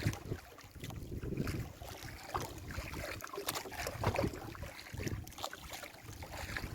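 Wind gusting on the microphone and choppy water around a small fishing boat at sea, with scattered sharp knocks.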